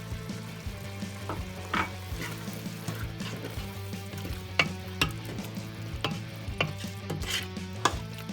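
Food sizzling in a pan while being stirred, with a utensil knocking against the pan a dozen or so times at irregular moments.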